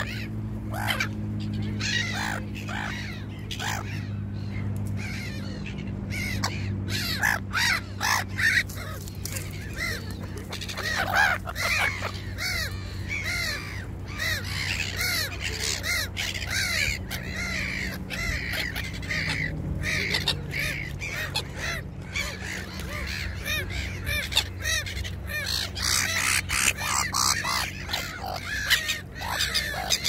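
Birds calling over and over, many short calls in quick succession, with a steady low hum underneath.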